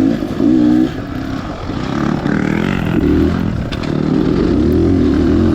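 Beta Xtrainer 300's two-stroke single-cylinder engine running on the dirt bike, its pitch rising and falling with the throttle.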